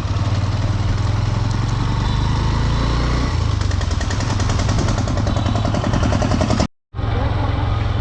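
Honda Dream 110's single-cylinder 110cc engine running steadily, with an even, rapid firing rhythm. The sound drops out completely for a moment near the end.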